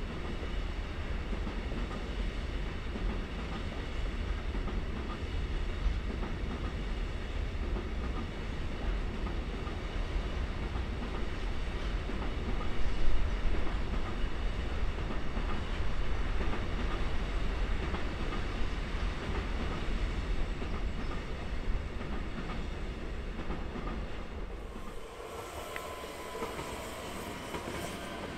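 A train rolling past with a steady rumble and the clatter of its wheels over the rails. Near the end the low rumble drops away, leaving a higher hiss.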